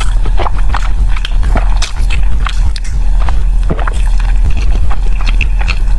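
Close-miked chewing of sticky glutinous rice dumpling (zongzi), with many short wet mouth clicks and smacks. A low steady hum runs underneath.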